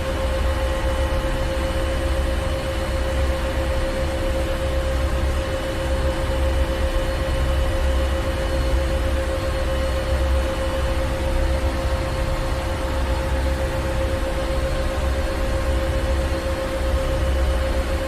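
Ship's engine room: heavy machinery running steadily, a deep rumble under a constant hum with steady whining tones and a wash of hiss.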